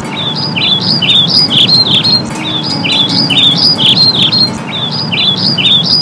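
Small birds chirping in a fast, regular run of short falling calls, several a second, over a steady low background hum.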